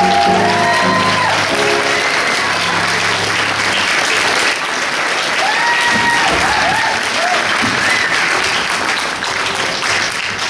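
Audience applauding, with scattered high shouts from the crowd. Sustained background music chords sound under the clapping and stop about two and a half seconds in.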